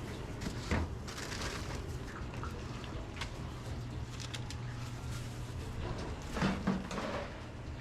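Restaurant kitchen ambience: a steady low machinery hum under scattered clinks and clatter of utensils and dishes, with louder knocks about a second in and again near the end.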